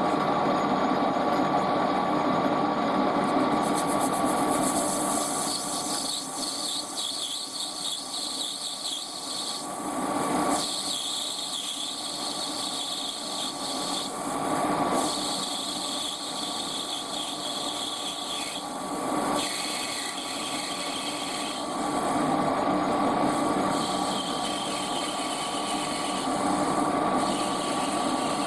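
Metal lathe running with a steady motor whine while the tool takes light cuts on a brass workpiece. The cutting noise comes and goes, easing off briefly a few times.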